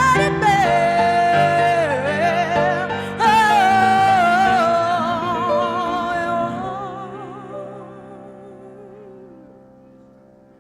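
Closing held note of a sung ballad, the voice sliding down and then swelling with wide vibrato over sustained accompaniment chords. The voice and chords fade away over the last few seconds as the song ends.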